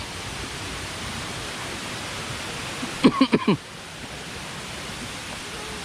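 Steady rushing of a waterfall. About three seconds in, a short burst of a person's voice rises over it.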